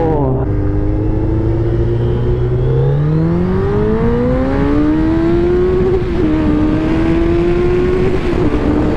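Sport motorcycle engine accelerating. Its pitch holds low, then climbs steadily for a few seconds, dips briefly about six seconds in as if on a gear change, holds high, and starts to fall near the end.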